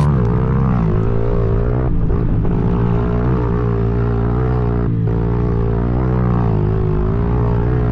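Dirt bike engine revving up and down as it is ridden, its pitch rising and falling, with brief dips about two and five seconds in.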